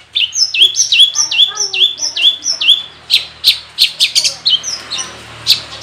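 Long-tailed shrike (cendet) singing. First comes a run of about nine falling whistled notes, three or so a second. A little under halfway through, the song switches to sharp, loud chip notes at a similar pace.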